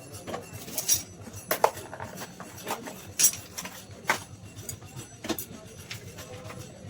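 Metal tools and engine parts clinking and tapping against each other during motorcycle engine assembly: about six separate sharp clinks a second or so apart.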